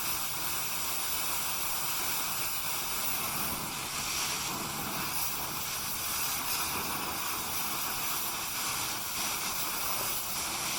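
Gas torch flame hissing steadily while heating a stuck excavator bucket-tooth pin.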